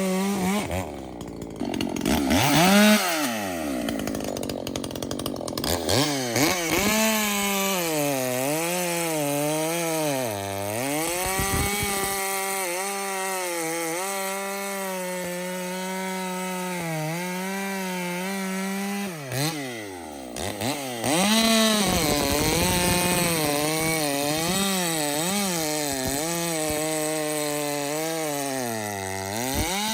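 Ported Echo two-stroke chainsaw cutting wood at full throttle, its engine pitch dipping and recovering over and over as the chain bites into the log. The revs drop twice, about two seconds in and again around two-thirds of the way through, then climb back for the next cut.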